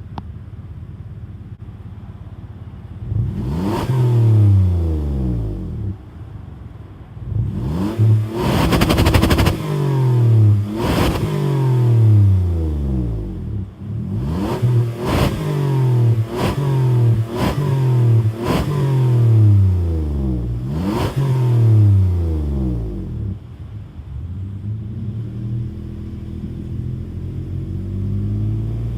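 2007 Toyota Sienna's 3.5-litre 2GR-FE V6, warm, idling and then free-revved in about ten sharp blips, each rising quickly and falling back toward idle, with one longer, higher rev about eight seconds in. It settles back to idle for the last several seconds.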